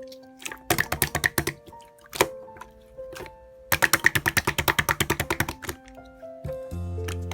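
Slime being played with by hand, giving runs of rapid sharp clicking pops at about eight a second, twice, over background music.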